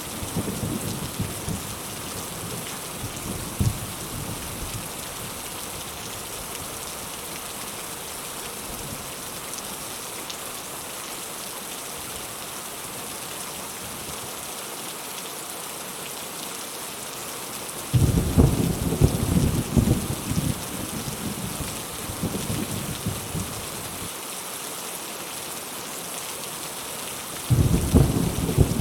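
Steady heavy rain with rolling thunder: a rumble dies away in the first few seconds, another breaks out about two-thirds of the way through and rolls for several seconds, and a third begins near the end.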